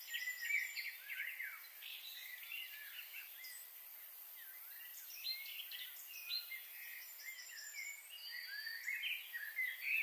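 Several small birds chirping and calling, a busy mix of short rising and falling notes, with a fast high trill twice, over a faint steady hiss.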